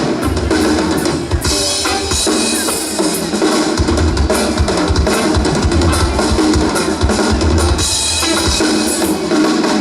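Live rock band playing with the drum kit to the fore: steady kick drum and snare, and cymbals washing over it twice, about a second in and again near the end.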